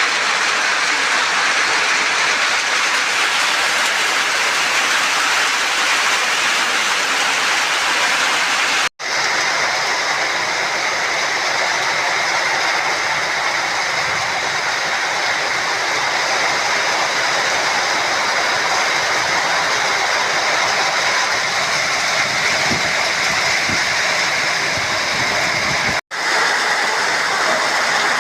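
Rain falling, a loud steady hiss. The sound cuts out for an instant twice, about nine seconds in and a couple of seconds before the end.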